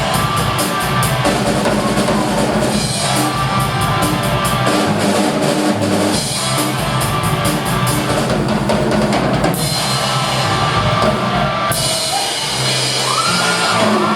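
Live rock band of drum kit, electric guitars and bass playing a loud instrumental passage without singing; the drums keep a steady beat with cymbals, and a held note slides upward near the end.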